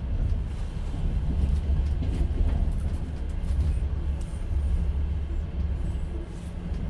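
Steady low rumble of a moving passenger train heard from inside an open-plan sleeper carriage: the wheels and carriage running on the track.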